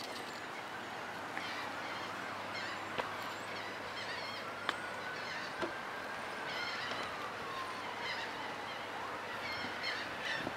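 Birds calling over and over with short squeaky calls above a steady background hiss, broken by a few sharp clicks. A faint long tone slowly rises and falls through the middle.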